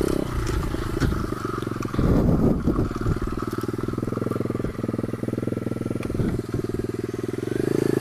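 A 125 cc pit bike's single-cylinder engine runs at changing throttle over bumpy ground, with knocks and clatter from the bumps. There is a louder rough patch about two seconds in, and the engine picks up again near the end.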